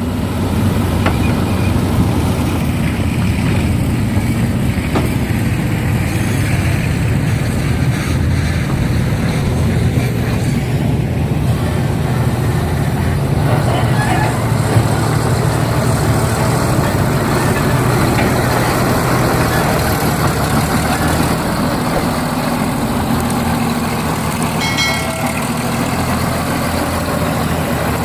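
Heavy diesel engines running steadily as an excavator loads soil into a truck, a low engine hum under a wash of working noise.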